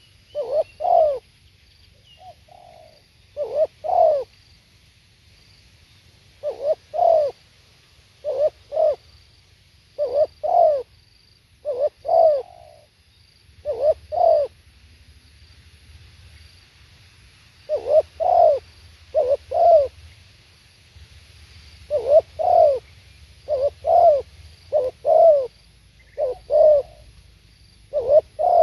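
Spotted dove cooing: short phrases of two to four low coos, repeated with pauses of a second or two between phrases.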